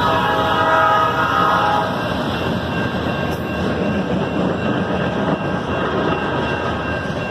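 Diesel freight locomotive's multi-tone air horn sounding and cutting off about two seconds in, followed by the steady noise of the train's wheels on the rails as it rolls past.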